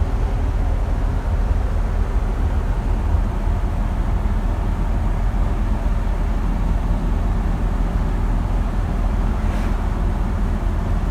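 Steady low rumble of engine and road noise inside the cabin of a 1957 Ford Thunderbird cruising along, its V8 running at an even pace.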